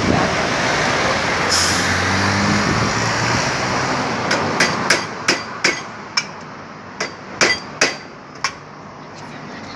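Gas torch flame hissing steadily as it heats a motorcycle frame, fading out after about five seconds. From about four seconds in, about ten sharp hammer blows ring on the steel frame, roughly two a second.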